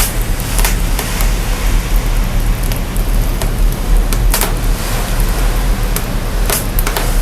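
Burning fire, processed to boost its lowest frequencies: a steady rushing hiss over a deep rumble, with sharp crackles and pops now and then, the loudest about four and six and a half seconds in.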